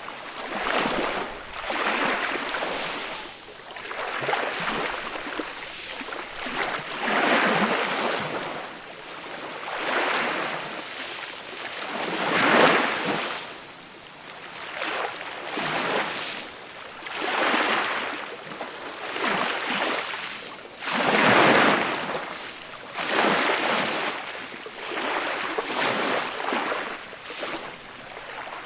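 Small, gentle sea waves breaking and washing up the shore, a hiss that swells and fades every two to three seconds, with two bigger breakers near the middle and about three-quarters of the way through.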